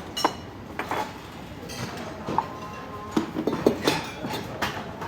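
A series of irregular clinks and knocks of hard objects, with a couple of short ringing clinks about two and a half seconds in.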